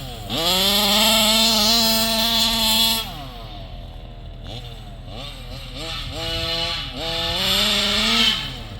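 SCZ 70cc two-stroke engine of a large-scale RC car revving hard. It climbs quickly to high revs and holds them for about three seconds, then drops back to a lower speed, and a few seconds later the throttle is blipped in several short rising-and-falling revs.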